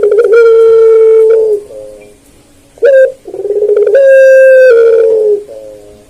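Puter pelung turtle dove cooing loudly: two long, drawn-out coos, each held on a steady pitch for a second or more. The first coo is followed by a few short trailing notes, a short rising note leads into the second, and the second also ends in short trailing notes.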